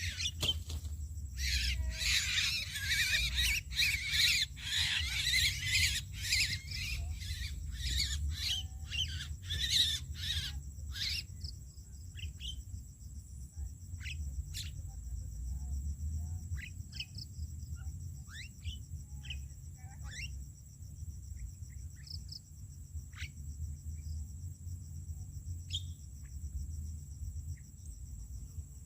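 Jalak starlings calling: a dense run of overlapping harsh calls for the first ten seconds or so, thinning to scattered single calls. A cricket's steady high trill starts about eleven seconds in, over a low rumble.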